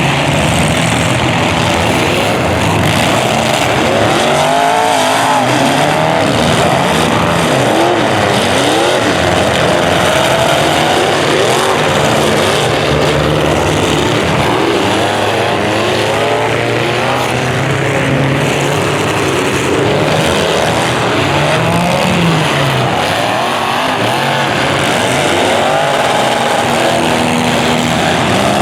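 Several demolition derby cars' engines running together and revving up and down, their pitches rising and falling over one another.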